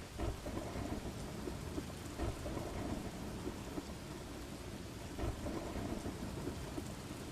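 Steady rain with low rumbles of thunder swelling up a few times.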